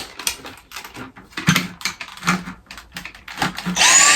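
Clicks and knocks of plastic vacuum parts being handled and clipped together. Near the end a Dyson V6 cordless vacuum's motor starts with a high whine whose pitch slides up and down, running with no suction.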